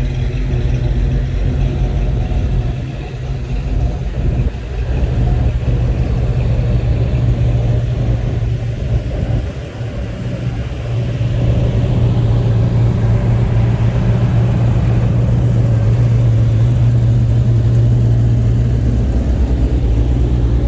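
Classic cars' engines idling and creeping along in a line as they roll in, a steady low exhaust rumble that eases briefly twice before settling steady.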